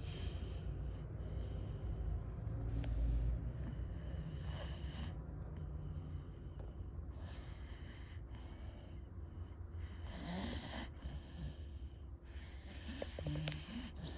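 A sleeping pit bull snoring, with slow, noisy breaths recurring every two to three seconds over a low rumble.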